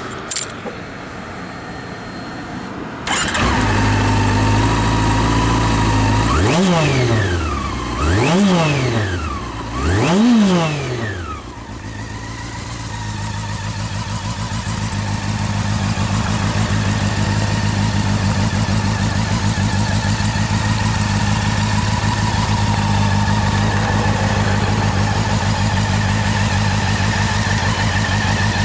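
Honda CB400SB Revo's 400 cc inline-four starting about three seconds in and idling, then blipped three times in quick succession, each rev rising and falling, before settling back to a steady idle through its exhaust.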